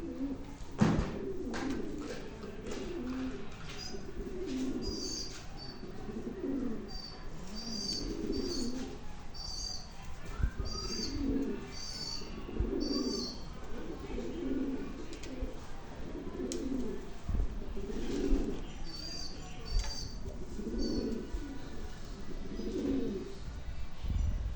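Pigeons cooing over and over, with short high chirps of small birds over them and a few knocks.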